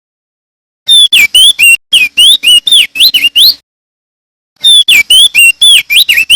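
Male crested white-eye (opior jambul) singing loudly: two bursts of quick whistled notes that sweep up and down, each lasting about two and a half seconds, the second starting about a second after the first ends.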